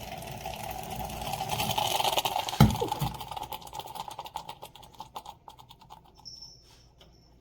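Stainless steel moka pot on the stove, hissing and sputtering as boiling water is forced up into the top chamber. The hiss builds, a sharp knock comes about two and a half seconds in, then a run of crackling pops thins out, with a faint high whistle near the end.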